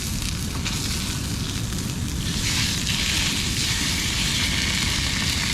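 Miso-marinated tuna frying in a hot pan, a steady sizzle that gets louder about two seconds in, over a constant low rumble.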